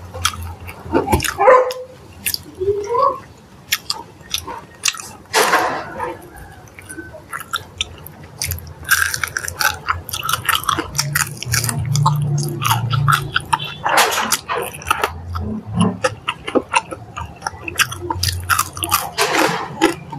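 Close-up eating of fried chicken: chewing and biting with many short crunchy, smacking mouth sounds, over a low steady hum.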